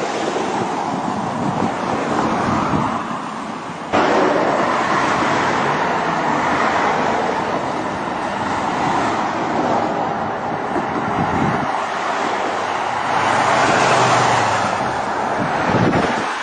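Steady rush of car road noise from a vehicle driving, jumping abruptly louder about four seconds in.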